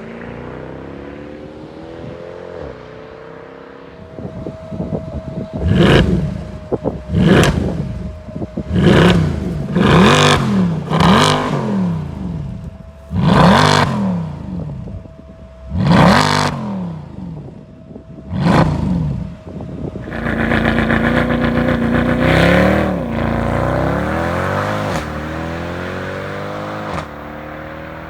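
Mercedes-Benz C63 AMG's 6.2-litre naturally aspirated V8 through its stock exhaust, idling and then revved in about eight sharp blips, each rising and falling. From about two-thirds of the way in it is held at higher revs for several seconds with a lot of hiss, then eases off near the end.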